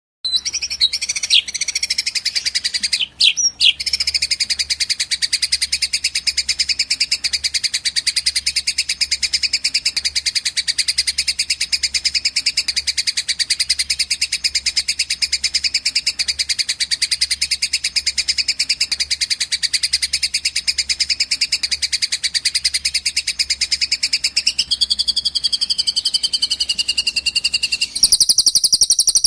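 Recorded songbird song for training cage birds: one long, unbroken, very rapid high trill that shifts in pattern a few seconds before the end. About a second before the end it cuts abruptly to a different, brighter bird recording.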